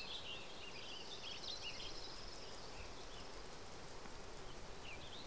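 Faint outdoor ambience of small birds chirping, with a thin high trill held for about two seconds starting about a second in.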